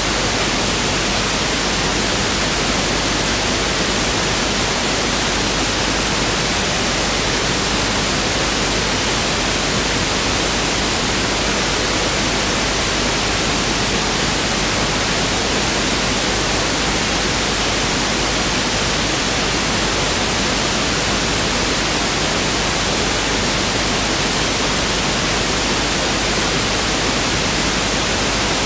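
Pink noise (1/f noise) test signal: a steady, even hiss that never changes.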